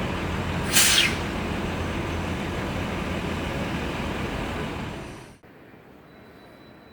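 Road traffic noise with a short, loud hiss about a second in. The sound cuts off abruptly a little past five seconds, leaving a faint steady background.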